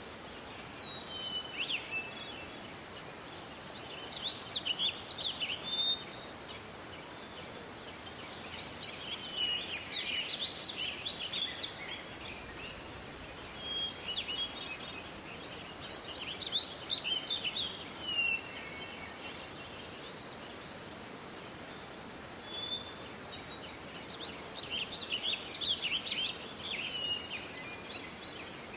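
A songbird singing: short, fast twittering phrases that come back every few seconds, with single short high call notes between them, over a steady faint hiss.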